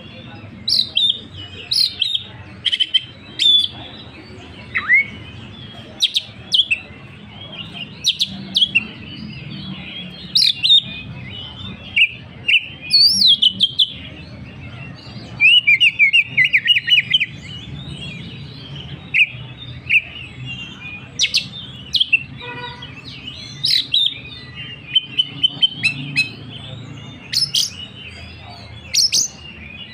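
A songbird singing: a long run of sharp chirps and whistled notes, with a rapid trill about halfway through, over a steady low hum.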